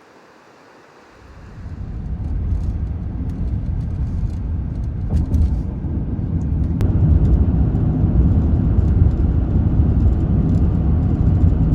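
Vehicle running: a steady low rumble that comes in about a second in and holds.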